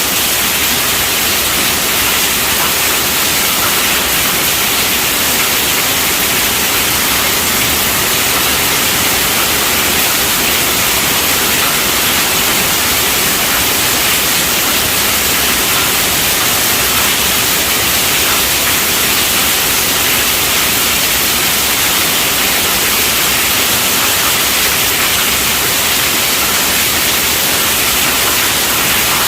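Heavy rain falling steadily on a tent roof, an even hiss with no letting up.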